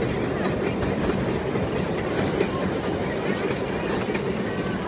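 Puffing Billy narrow-gauge train's carriages rolling past over a timber trestle bridge: a steady noise of wheels running on the rails.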